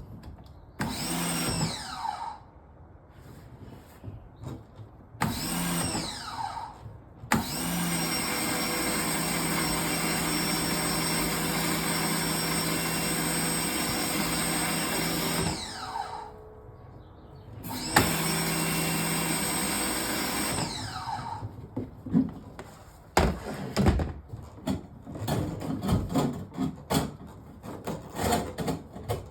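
A power tool's electric motor run in four bursts, each winding up with a rising whine, holding a steady hum and winding down with a falling whine; the longest run lasts about eight seconds. It is working to clear an oil-clogged kitchen sink drain pipe. Scattered knocks and clatter follow in the last third.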